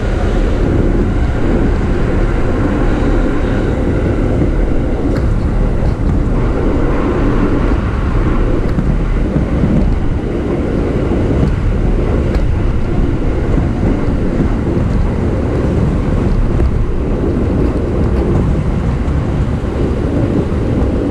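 JR East E233-series electric commuter train running at speed, heard from inside the car: a steady rumble of wheels on rails, with a few faint clicks.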